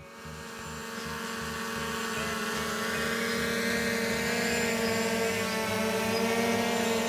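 Small quadcopter drone, a DJI Air 2S, running with a steady whine from its motors and propellers, growing louder over the first few seconds and then holding.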